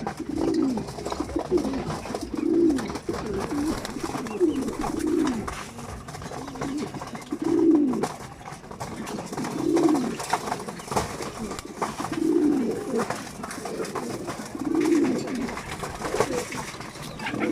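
Domestic pigeons cooing: low, throaty coos that dip in pitch, repeating every second or two, at times overlapping.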